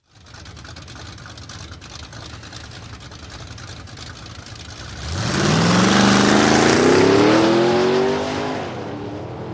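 Motorcycle engine accelerating hard: a lower, steady running sound, then about five seconds in the engine note climbs steadily in pitch and grows much louder for some three seconds before falling away.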